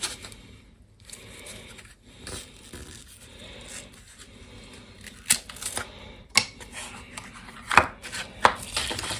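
Hands snapping and peeling strips of gypsum core off the front paper of a 5/8-inch drywall piece: dry rubbing and crumbling, with a few sharp cracks in the second half.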